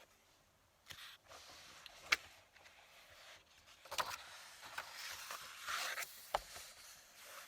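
Paper and desk items being handled: rustling and scraping for several seconds, with three sharp light knocks.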